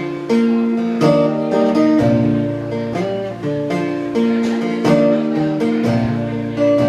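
Acoustic guitar strummed and picked in an instrumental outro, chords changing about once a second.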